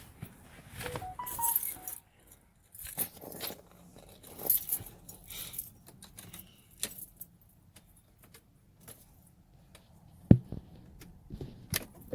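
Car keys jangling and clicking as they are handled, with scattered small knocks, a few short rising beeps about a second in, and one loud thump about ten seconds in.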